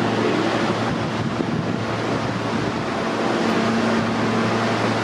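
R160-series subway train running between stations, heard from inside the car: a steady rush of wheel and track noise with a low, even hum underneath.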